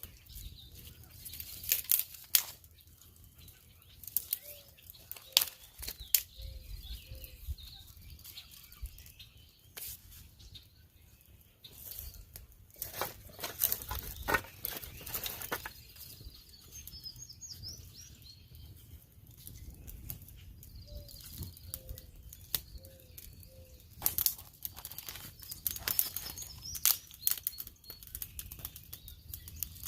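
Irregular sharp clicks and rustling, with small birds chirping faintly in the background.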